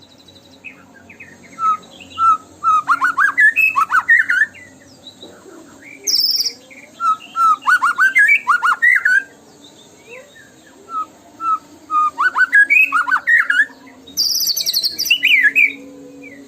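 White-rumped shama (murai batu) singing: four phrases, each opening with a few separate clear whistled notes and breaking into a fast run of loud rising and falling whistles, with short pauses between. Two of the phrases carry a higher buzzy note, one about six seconds in and one near the end.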